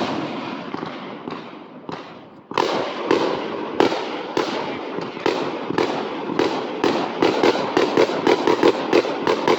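Fireworks going off: a single sharp bang, then from about two and a half seconds a rapid string of bangs, several a second and coming faster near the end.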